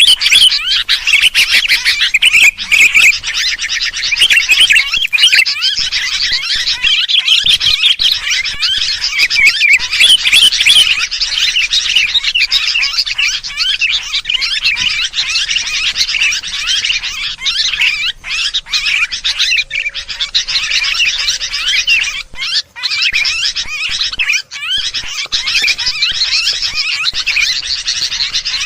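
Sooty-headed bulbuls (kutilang) in agitated, noisy calling: dense, unbroken chattering and chirping. This is a lure recording of alarmed birds, meant to draw other birds in.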